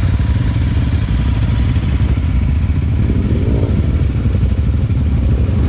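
Enduro motorcycle engine idling steadily.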